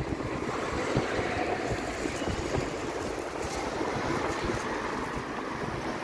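Strong hurricane-force wind of about 55 km/h blowing hard against the microphone: a steady rush of noise with low buffeting rumble.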